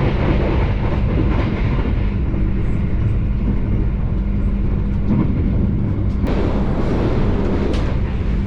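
Passenger train running at speed, close to 100 km/h: a steady rumble of wheels on the rails with a low steady hum.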